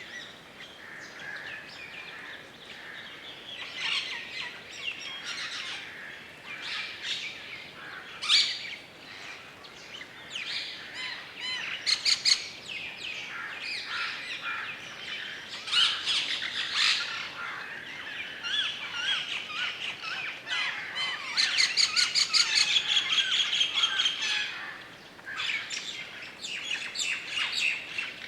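Woodland dawn-chorus-style birdsong: many birds chirping and warbling at once, with a fast rapid-fire trill in the second half and a few sharp calls.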